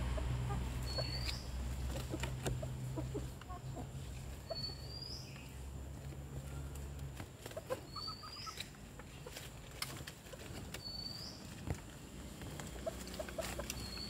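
A bird calling in the background: a short, high, rising whistle repeated about every three seconds. A low steady hum runs underneath and stops about halfway through.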